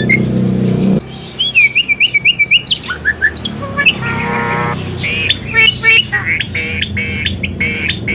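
Javan myna chattering song: a quick run of short rising whistled notes, sliding whistles, a drawn-out buzzy note, then harsh, dense chattering.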